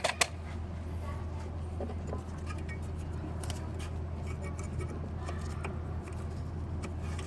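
Light metallic clinks and clicks of hand tools and parts being handled, with one sharp click about a quarter second in, over a steady low hum.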